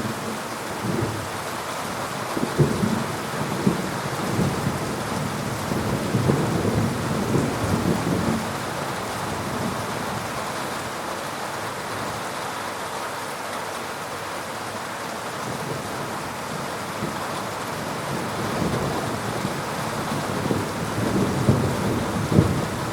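Heavy rain falling steadily in a thunderstorm, with low rolls of thunder swelling through the first third and again near the end.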